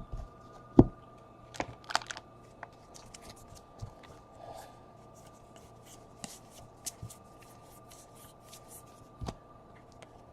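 Baseball trading cards being handled and flipped through by hand: a run of light clicks and rustles, with two sharper knocks near the start and another near the end. A faint steady hum runs underneath.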